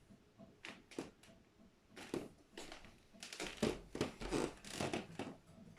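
Pet budgerigar chattering: runs of short, rough chirps in three clusters, busiest in the second half.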